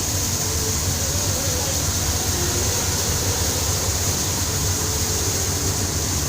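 Steady low drone and hiss of a tanker ship's machinery running without letup.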